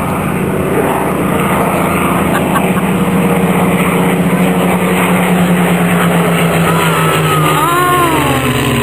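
Spitfire and Hurricane fighters flying past, their piston engines droning steadily, the pitch dropping in the last couple of seconds as they go by.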